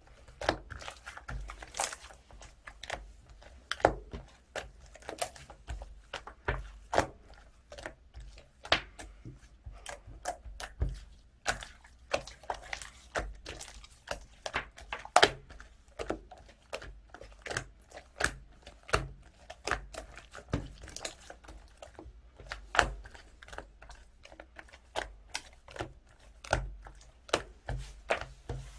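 Blue 'ice cream' clay-mixed slime being squeezed and pressed by hand, giving irregular crackly clicks and small pops several times a second.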